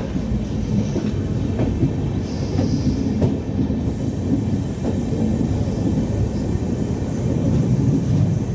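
Train running on rails: a steady low rumble with a few short clicks from the wheels.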